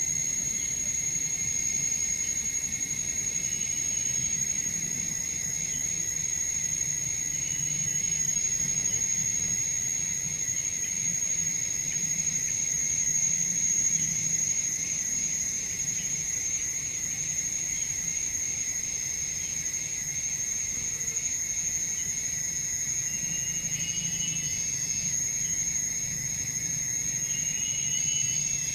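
Forest insect chorus: a steady, high-pitched insect drone with a weaker, lower insect tone beneath it, and a few short chirps near the end.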